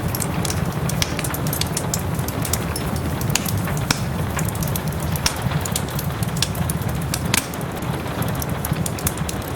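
Wood fire in a fireplace crackling with frequent sharp pops, one louder snap near the end, over a steady hiss of soft rain.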